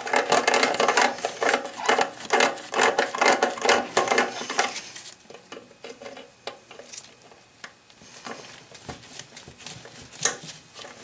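Metal clicking and scraping as the toilet's closet bolts and nuts are worked with hand tools: a rapid busy run of clicks for about five seconds, then only scattered clicks.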